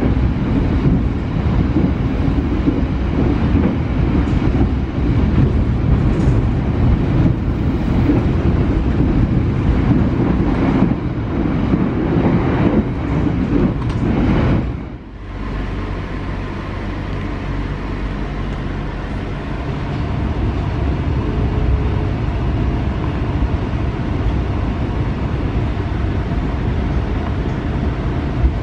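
Passenger train running, heard from inside a coach: a loud, steady rumble of wheels on track. About halfway through it drops suddenly to a quieter, smoother running noise with a faint low hum.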